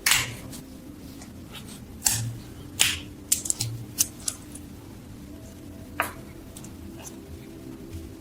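A series of sharp clicks and knocks, as of small metal parts being handled on a workbench, over a steady low hum. The clicks bunch together between about two and four and a half seconds in.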